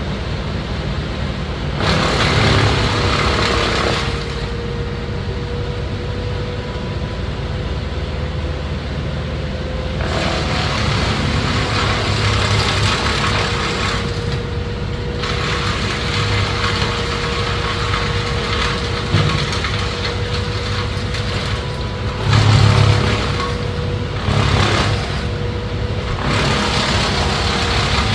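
Engine of tree-cutting equipment running steadily, with several louder, harsher stretches of a few seconds each that come and go.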